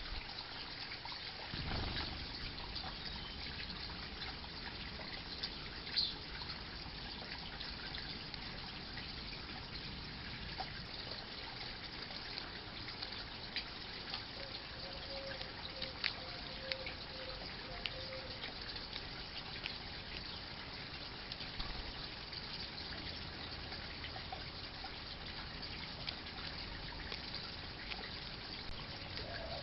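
Steady trickling water, with a few small ticks and a faint run of low notes near the middle.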